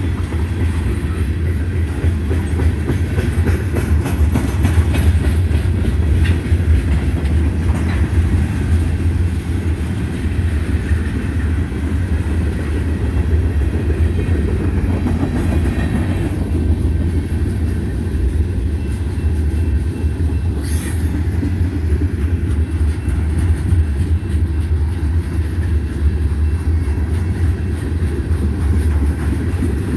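Manifest freight train rolling past, a steady low rumble of railcars on the rails, with a brief high-pitched sound about two-thirds of the way through.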